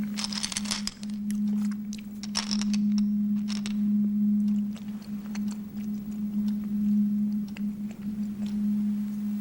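A steady, low humming tone that holds one pitch throughout, with scattered faint clicks and crackles in the first few seconds.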